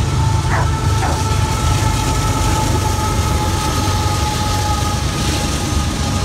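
Long CSX freight container train rolling past with a steady low rumble, and a steady high whine over it.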